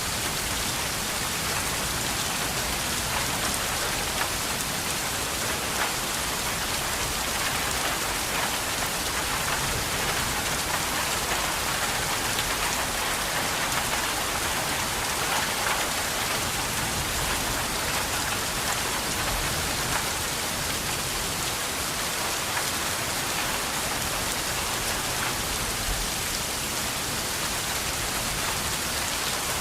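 Steady rain falling on a surface, an even hiss with scattered drop patters.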